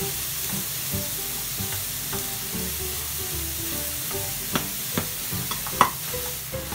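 Diced chicken and onion sizzling in a frying pan, stirred with a wooden spatula. Three sharp knocks near the end, the last the loudest, from the spatula striking the pan.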